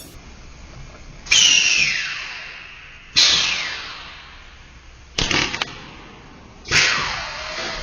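Spot welding machine firing four welds, each a sharp crack that fades over about a second with a falling high ring. The third is a quick cluster of snaps.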